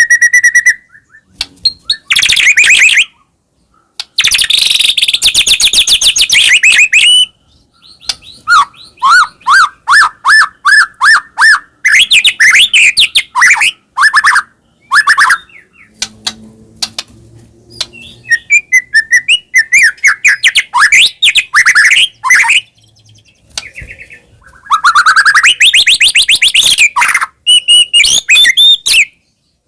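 White-rumped shama (murai batu) in full, vigorous song: loud bursts of fast trills, quickly repeated notes and rising whistles, each lasting a second or few, broken by short pauses.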